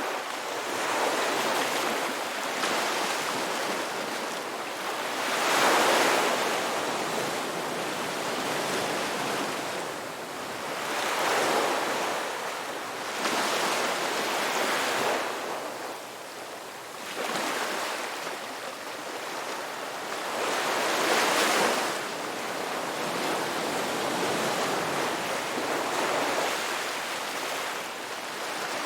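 Ocean surf: waves rush in and wash out in an irregular rhythm, each surge of hiss swelling and fading over a few seconds. The biggest swells come about six seconds in and again around twenty-one seconds.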